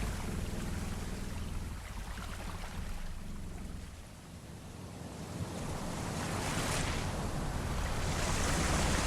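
Sea waves washing against a ship, with a low rumble beneath; the wash fades about four seconds in, then builds into a fuller surge toward the end.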